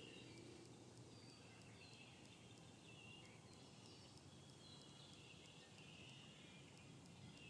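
Near-silent woodland with faint, scattered short bird chirps.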